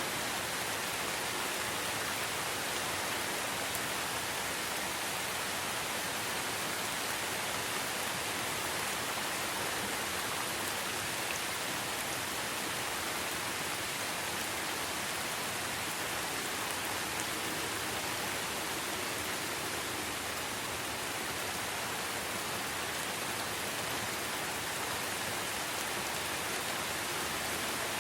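Steady rain falling in a forest, a constant even hiss of drops with no single drop standing out.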